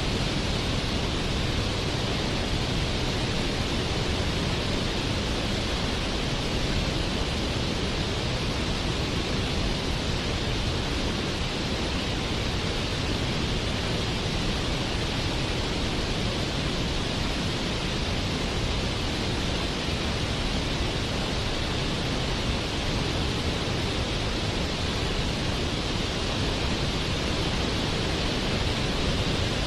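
Waterfall: a steady rush of falling water, unbroken and even in level.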